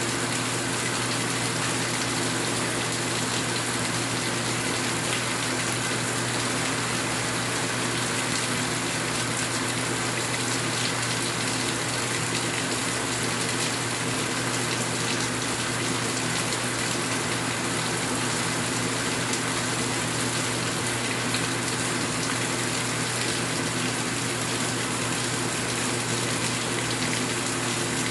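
Steady rain falling: an even, unbroken rushing hiss.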